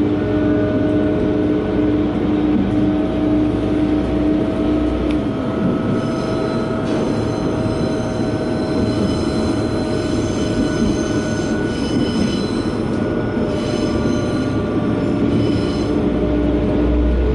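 KiHa 120 diesel railcar running on the Sanko Line: engine drone and rail rumble. About five seconds in, the engine note falls away and a thin, high wheel squeal comes and goes. Near the end the engine note and rumble return.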